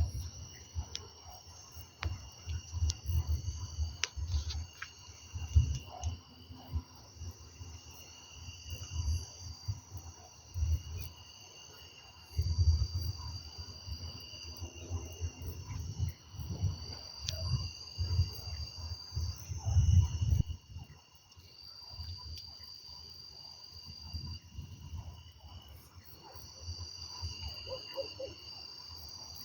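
Crickets and other insects calling in steady high-pitched trills throughout. Over them come irregular low rumbling surges, the loudest sound, which stop abruptly about two-thirds of the way through.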